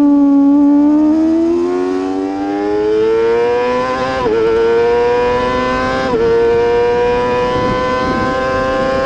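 Racing motorcycle engine accelerating hard, its note climbing steadily, with two quick upshifts about four and six seconds in, then held high.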